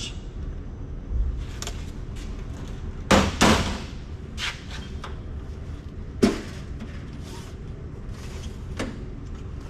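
Scattered sharp clicks and knocks from handling circuit boards and metal rack hardware, the loudest pair about three seconds in and another single knock just after six seconds.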